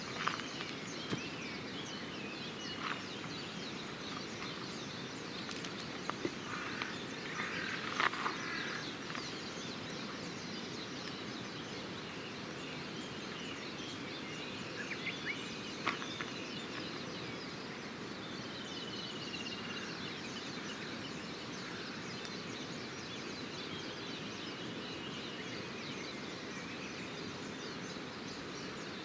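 Wood campfire burning with a few scattered crackles and pops, over steady outdoor background noise with birds chirping now and then.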